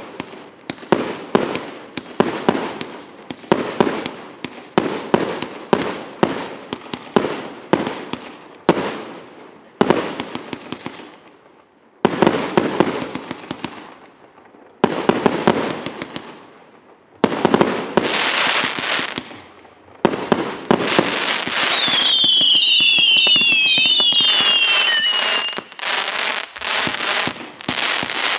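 RS8904 'Two Capitals' firework cake battery firing in volleys: a quick run of launch shots and bursts, about two a second, with short pauses between volleys. About 22 seconds in, several falling whistles overlap over dense crackling for a few seconds.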